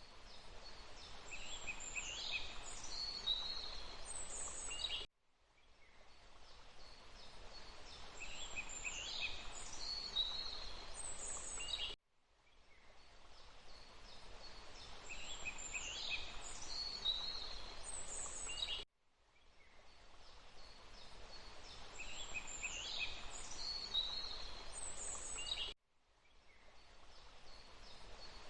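Looped forest ambience: several birds whistle and chirp over a steady rushing background. The same clip of about seven seconds repeats over and over, each pass fading up from silence and then cutting off abruptly.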